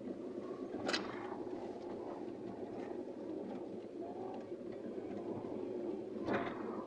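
Vehicle travelling on a rough dirt road: a steady rumble of engine and tyres, broken by two sharp knocks, about a second in and near the end.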